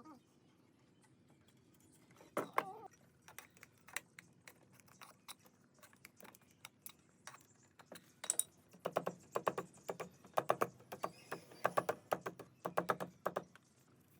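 Irregular light clicks and taps from hand work, sparse at first and coming in quick clusters in the second half.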